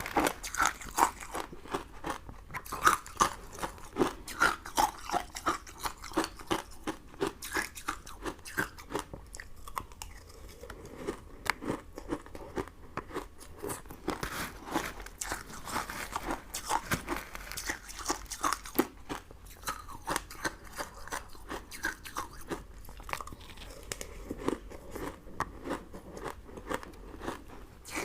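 Close-miked chewing of crunchy sugar-crystal candy: a dense run of sharp crunches, several a second, easing for a few seconds around the middle.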